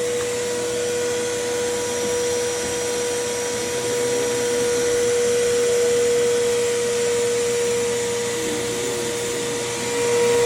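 Grandfalls G20 electric pressure washer's motor running with a steady whining drone like a vacuum cleaner, swelling briefly near the end. The machine runs but builds no spraying pressure: it only makes this vacuum sound.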